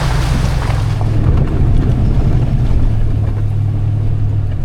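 Truck driving, with its engine and road noise making a steady low drone.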